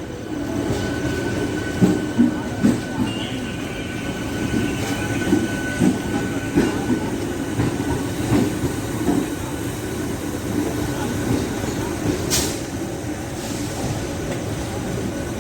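Train moving slowly along the station tracks: a steady rumble with irregular wheel knocks, with a faint steady squeal in the first half and a sharp click about twelve seconds in.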